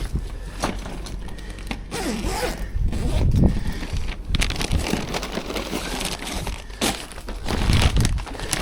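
Handling noises of a food delivery being dropped off: rustling and crinkling of bags, a zip, and scattered clicks and knocks, with a couple of heavier thumps.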